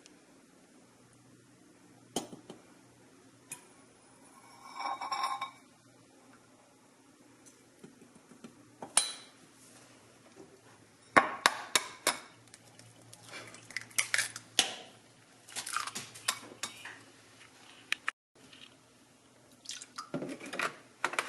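Dishes, bowls and cutlery clinking and knocking during scrambled-egg preparation, a few scattered clinks at first and busier clattering in the second half.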